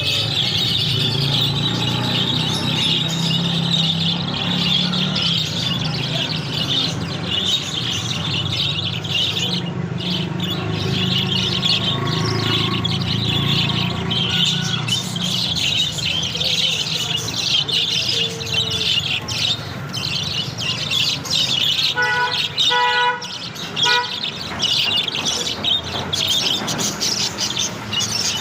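A colony of caged Australian birds chattering and chirping continuously in a dense, overlapping chorus, over a steady low hum. About three quarters of the way through, a short pitched sound with overtones comes a few times.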